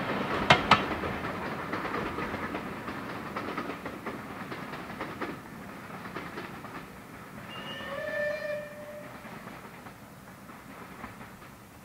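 Passenger coaches of a steam-hauled train receding: the wheels clack over rail joints twice just after the start, then the rumble fades away. About eight seconds in, a distant whistle sounds once for about a second and a half.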